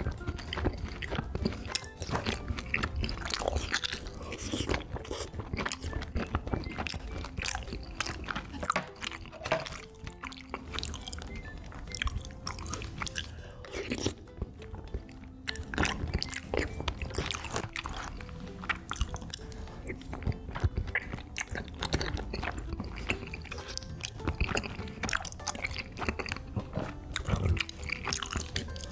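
Close-miked chewing and eating sounds as rice cakes in rosé tteokbokki sauce are eaten: dense, wet clicks and crackles throughout. Quiet background music plays underneath.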